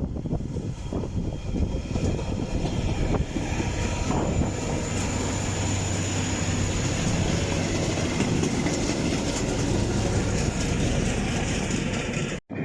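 Freight train passing: a diesel locomotive's steady low engine drone over the rumble of the wagons, with a thin high whine in the middle. The sound cuts off abruptly near the end.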